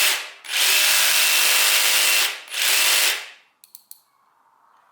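Ryobi R18JS7 18V One+ cordless pendulum jigsaw running free with no load in three short bursts, one long and two brief, each cut off quickly as the trigger is released. A few light clicks near the end.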